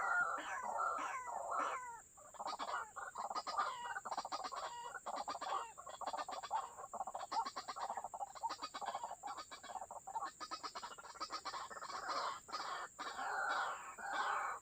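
White-breasted waterhens calling. A run of quick falling notes gives way, about two seconds in, to a fast stuttering rattle of short notes; the calls grow fuller again near the end.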